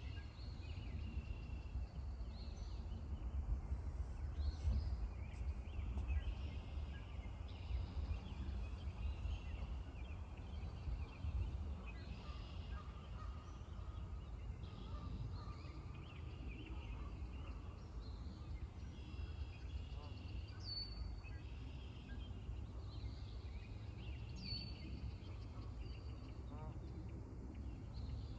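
Geese calling and chattering on and off over a steady low rumble, with two short high bird chirps in the second half.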